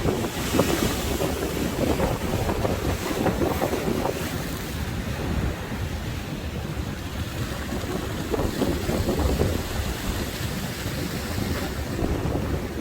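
Sea waves surging and washing on the shore, with strong wind buffeting the microphone.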